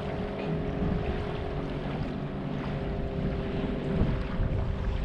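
Wind buffeting the microphone in a low rumble, with a steady hum of a few even tones running underneath that sinks slightly in pitch near the end.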